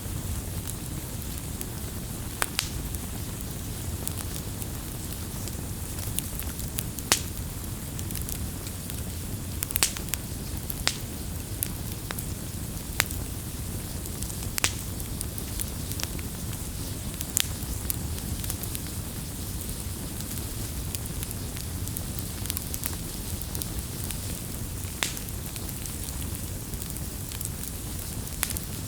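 Campfire burning: a steady low rumble of flames with sharp crackles and pops from the wood every second or two.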